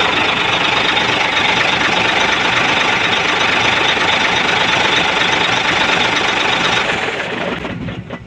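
Hino 700 dump truck's diesel engine running steadily at idle after air has been bled from the fuel feed pump, then dropping away and stopping near the end.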